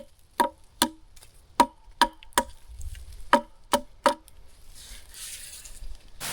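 About nine sharp knocks of hard objects struck together, each with a brief ringing note, coming in groups of two or three, then soft rustling near the end.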